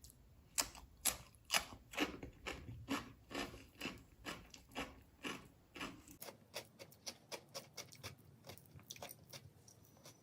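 Close-up eating sounds: chewing and wet mouth smacks, about two a second, loudest in the first few seconds, then lighter and quicker after about six seconds.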